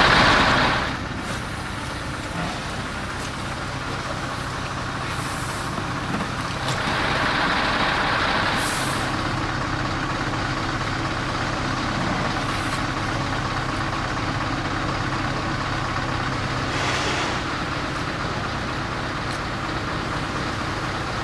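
Truck diesel engine idling steadily, building up air pressure in the brake system, with several short hisses of compressed air as air lines are coupled to the trailer.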